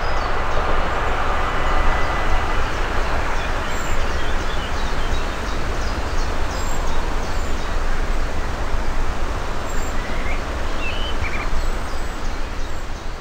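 A steam-hauled passenger train rolling away along the track: a steady noise of wheels on rail from its coaches that slowly fades as it leaves.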